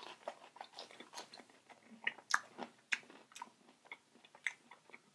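Close-miked chewing of French fries: an irregular run of sharp, crackling mouth clicks, several a second.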